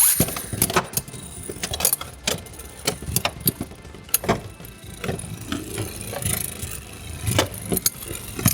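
Beyblade X tops spinning and colliding in a stadium: an attack-type top repeatedly strikes a defense-type top, giving irregular sharp metal clacks, some louder than others, over a steady spinning whir.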